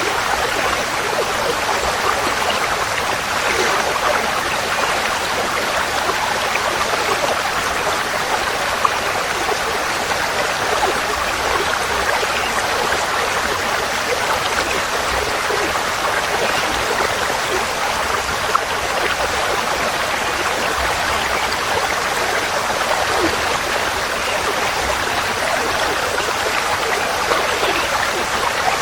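Forest stream flowing steadily over stones, a continuous even rush of water with a faint babble.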